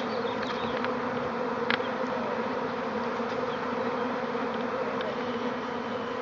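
Honeybee swarm buzzing in the air around a hive, a steady dense hum, with one sharp tick a little under two seconds in.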